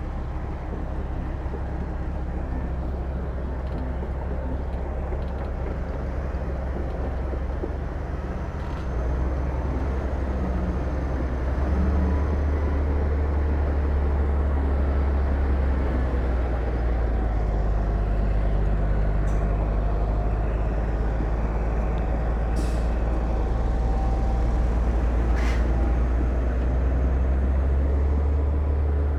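Heavy diesel earthmoving machinery running steadily with a deep low rumble, getting louder about nine seconds in and again a few seconds later, with a couple of short sharp hisses or clicks near the end.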